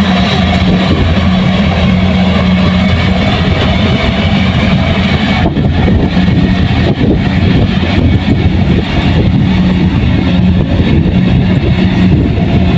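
Kubota combine harvester running steadily under load, its diesel engine and threshing machinery making a loud, continuous drone with a steady hum.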